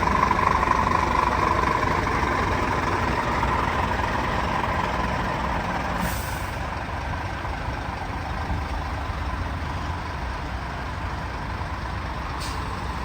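Scania truck running with a steady low engine drone. A short hiss comes about six seconds in, and a brief click near the end.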